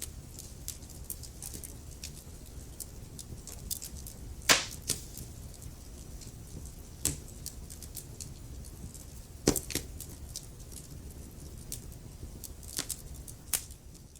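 Wood fire crackling: a steady low rumble of burning logs with frequent small crackles and several sharp, louder pops, the strongest about four and a half and nine and a half seconds in.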